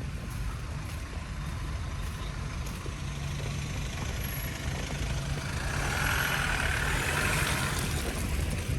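A large vehicle's engine running steadily, with a hiss that swells from about five and a half seconds in and fades near the end.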